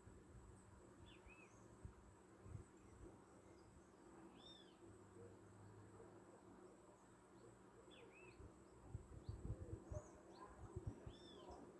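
Faint bird calls: short arched chirps, one every second or two, over a quiet rural background with a steady high-pitched tone. Low faint knocks and rumbles cluster in the second half.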